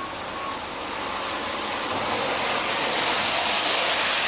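Rain mixed with wet snow falling, a steady hiss that swells to a louder rush about two to three seconds in.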